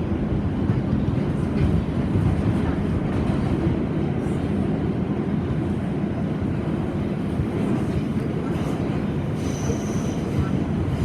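New York City subway train running with a steady, heavy low rumble; a thin, high wheel squeal starts near the end.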